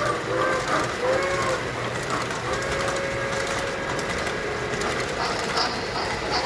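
Tinplate model trains running on the layout, a steady clattering hum, with two short toy-train whistle toots in the first second and a half and a longer, fainter whistle tone a little later.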